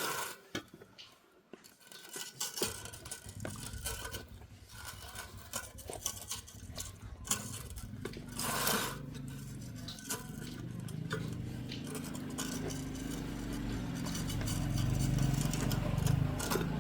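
Metal tools and parts clinking and scraping in scattered clicks. From about three seconds in, a low steady hum builds louder and then cuts off suddenly near the end.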